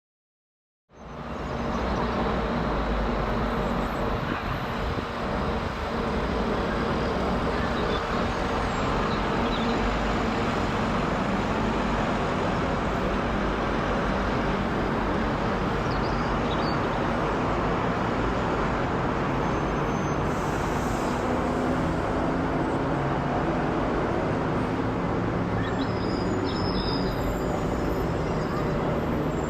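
Airbus A350's Rolls-Royce Trent XWB engines giving a steady jet roar as the airliner climbs overhead after takeoff. The sound starts abruptly about a second in and holds at an even level.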